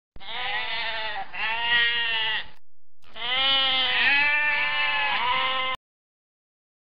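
Sheep bleating: several long, wavering bleats in two runs with a short pause between, the last cut off abruptly.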